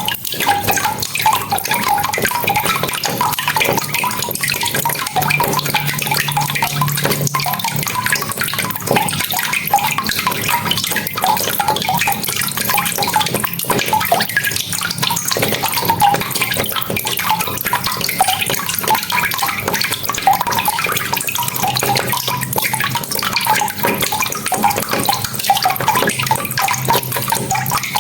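Rain falling steadily, with many separate close drops heard through the hiss.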